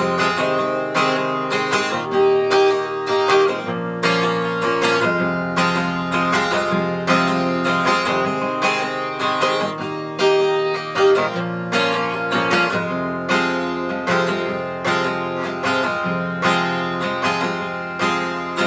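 Instrumental break of a song: strummed acoustic guitar with backing instruments at a steady rhythm, no singing.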